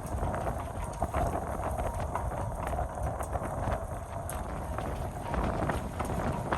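Strong wind buffeting the microphone in a steady low rumble, with irregular light knocks and clicks scattered throughout.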